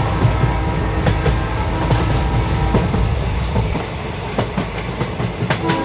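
Machine running with a steady low rumble, rapid clattering and a faint steady whine.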